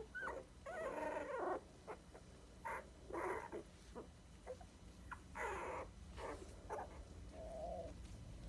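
Twenty-day-old dachshund puppies squeaking and whimpering in several short cries, with the strongest about one, three and five and a half seconds in.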